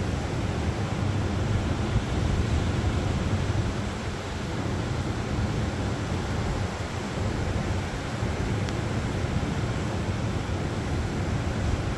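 Ocean surf washing on the beach, with wind rumbling on the microphone, as a steady noise throughout.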